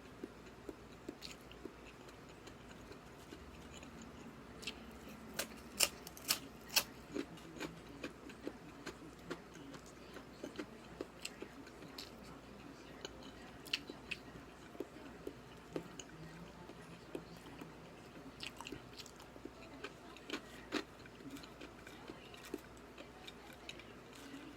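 A person chewing and eating close to the microphone: continual wet chewing and mouth noises with many small sharp clicks, the loudest three in quick succession about six seconds in.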